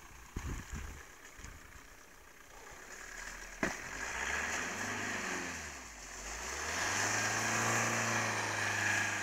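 A hatchback car's engine revs as it pushes through deep mud. The engine rises and falls in pitch from about three seconds in, then holds higher and louder near the end. There is a single sharp knock a little over three seconds in.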